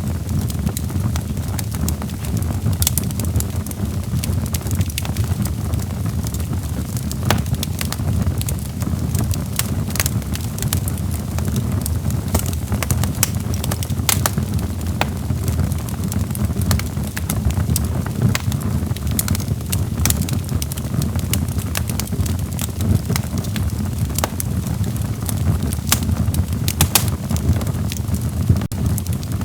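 Wood fire of burning logs crackling, with sharp irregular pops scattered over a steady low rumble of the flames.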